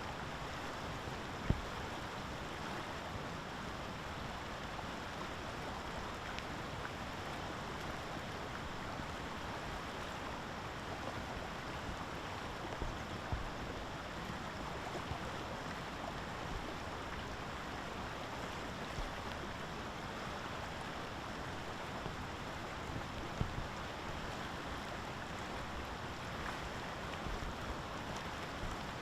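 Steady rushing outdoor noise with no bird calls, broken by a few faint knocks.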